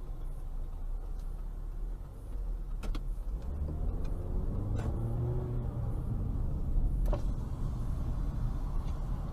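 A car driving: low engine and road rumble, with the engine note rising and then levelling off from about three and a half seconds in. Three sharp clicks or knocks come about two seconds apart.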